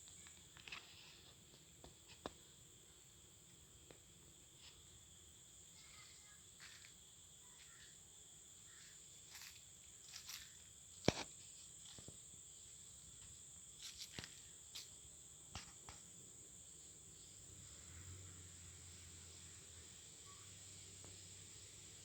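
Faint, steady high-pitched insect chorus, cricket-like, with scattered sharp clicks and knocks over it.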